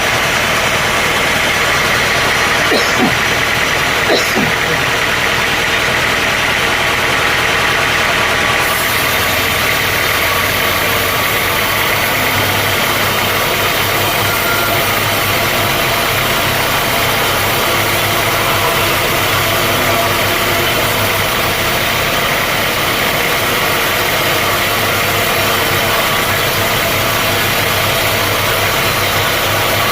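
Heavy sawmill machinery running steadily and loudly. About nine seconds in, the sound changes: a harsher, higher noise comes in over the low hum and then holds.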